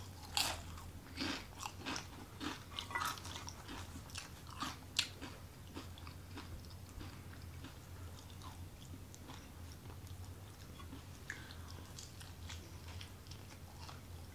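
Close-miked eating: mouth clicks and wet smacks from biting and chewing soft bread sandwiches and a tortilla wrap, most frequent in the first five seconds and sparser after. A steady low hum runs underneath.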